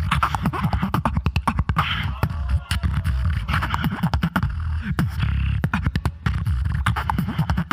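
Solo beatboxer performing into a microphone: a fast, dense pattern of vocal drum sounds, sharp snare- and hi-hat-like clicks over a continuous deep bass.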